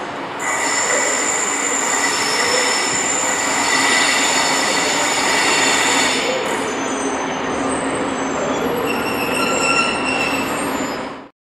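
Passenger train rolling slowly in, with high-pitched squealing in several steady tones that change about six seconds in. The sound cuts off abruptly near the end.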